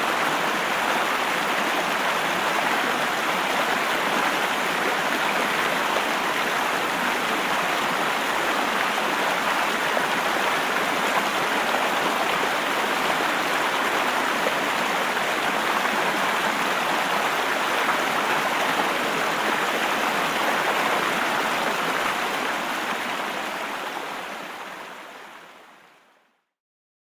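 Steady rushing of flowing water, fading out over the last few seconds.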